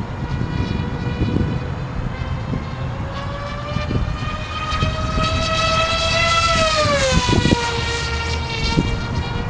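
Twin brushless electric motors and propellers of an RC model plane whining in flight, the pitch climbing slowly and then dropping sharply about seven seconds in as the plane passes or throttles back. Wind buffets the microphone throughout.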